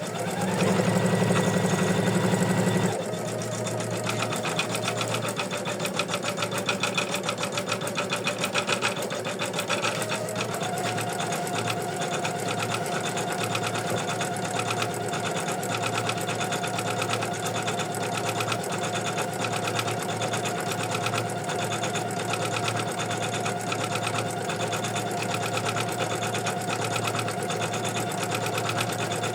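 Computerized embroidery machine stitching an in-the-hoop design, louder for about the first three seconds and then settling into an even, rapid run of needle strokes.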